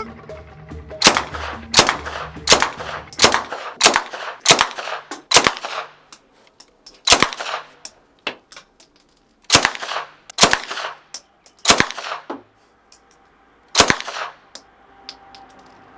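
Semi-automatic fire from a suppressed 9mm Uzi submachine gun: a string of about a dozen single shots, quick at first, then more spaced out. The suppressor only partly quiets it because the gun is firing normal supersonic ammunition.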